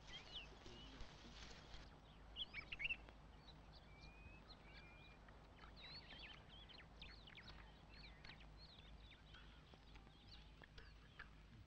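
Faint birdsong: many short, high chirps and whistles from several birds, scattered throughout, the loudest cluster a few seconds in.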